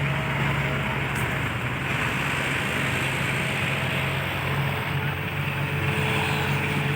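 Heavy diesel engine of earthmoving machinery running steadily at an even speed, a low constant hum with a dense rushing noise above it.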